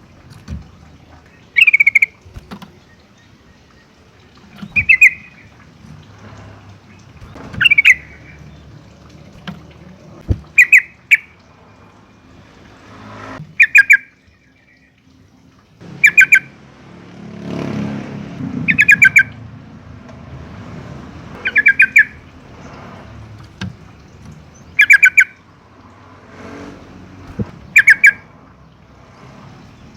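Yellow-vented bulbul calling: short, rapid stuttering phrases, about ten of them, each about half a second long and repeated every three seconds or so, over a low background rumble.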